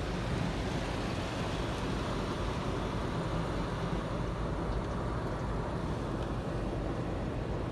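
Steady hiss and low rumble of an automatic car-wash gantry spraying the car through its nozzles, heard from inside the cabin, at what the speaker takes for the wax stage.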